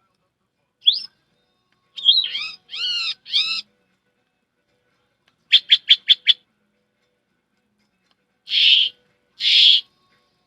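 A woman imitating a series of bird calls with her voice through a face mask. There is a short rising whistle, then a run of swooping whistled notes, five quick chirps in a row, and two raspy calls near the end.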